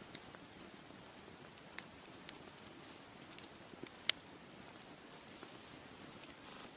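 Bonfire crackling: scattered sharp pops and snaps over a low steady hiss of burning, with one louder pop about four seconds in.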